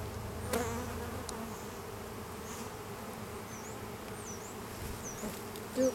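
Swarm of honeybees buzzing steadily around an opened hive, with a short knock about half a second in.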